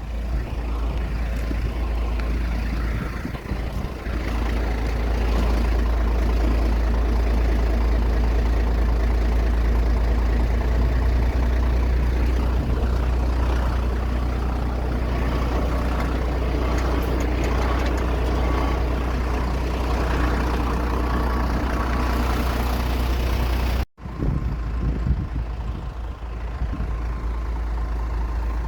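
Aircraft engine running steadily, a deep rumble with a broad rushing noise over it and a faint steady whine in the middle. It cuts out abruptly for a moment about twenty-four seconds in, then resumes.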